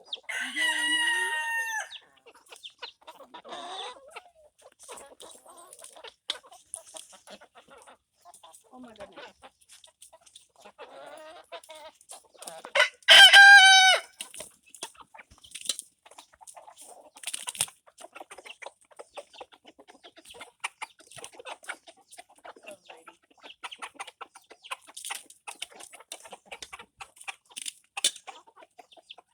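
Chickens clucking, with a rooster crowing loudly twice: once at the start and once about thirteen seconds in. Between the crows there are softer clucks and many short taps and clicks.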